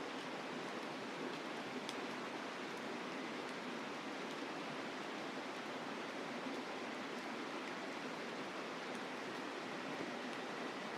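Mountain river rushing steadily, with a few faint crackles from a campfire scattered through it.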